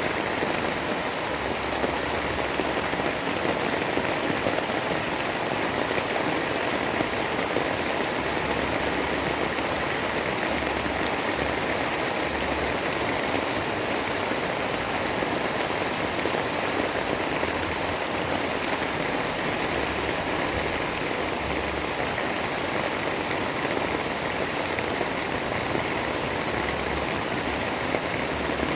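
Steady rain: an even, unbroken hiss with a few faint drop ticks.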